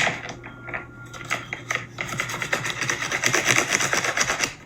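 A colouring tool scribbling on a paper plate: a fast, continuous run of scratchy back-and-forth strokes.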